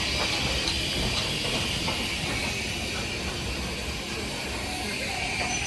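Steam locomotive standing with a steady hiss of escaping steam over a low rumble.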